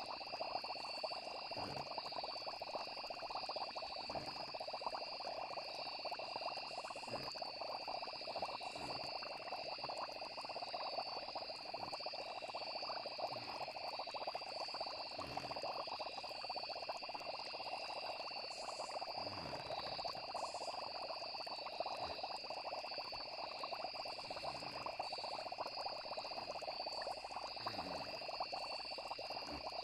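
Layered night ambience: a steady chorus of insects and frogs, with a low bubbling gloop every one to two seconds from a simmering cauldron.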